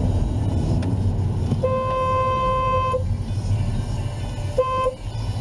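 Car horn honking: one long blast of over a second, then a short toot about three seconds in, over steady low road and engine rumble.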